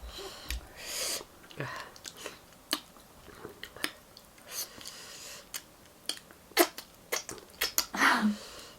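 Close-up chewing of crunchy food, chiura (beaten rice), with many short sharp crunches and mouth clicks and a few breathy sounds in between.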